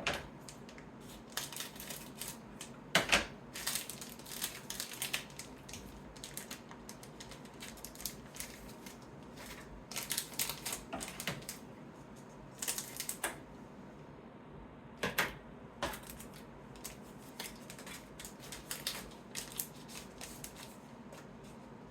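Grand Archive trading cards being handled and sorted by hand: irregular clusters of light clicks, taps and brief slides as cards are picked up, flicked and laid down, with quieter pauses between.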